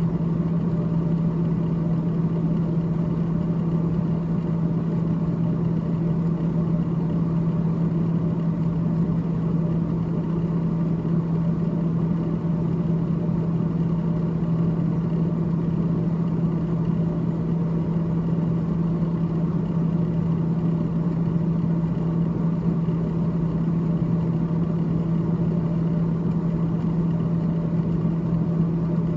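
The freezer fan of a GE GTH18XCTZRBB refrigerator running with a steady, unchanging low hum.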